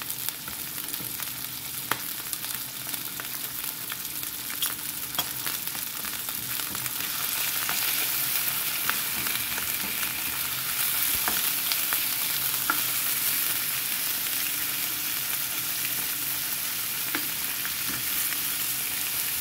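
Beef liver frying in oil in a skillet: a steady sizzle with scattered small pops and clicks as a spatula stirs and turns the pieces. The sizzle grows a little louder about seven seconds in.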